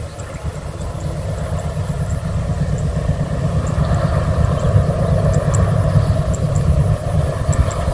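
A passing train, a steady low rumble of engine and wheels that grows slowly louder.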